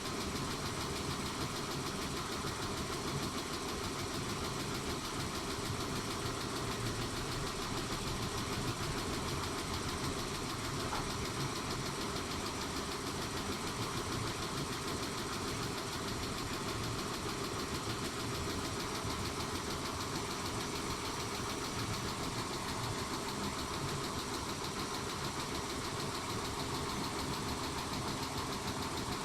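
Mitsubishi 6G72 V6 engine running steadily at idle with a fast, even ticking. The owner suspects the ticking is the hydraulic lifters, but asks whether it may instead be a tired engine.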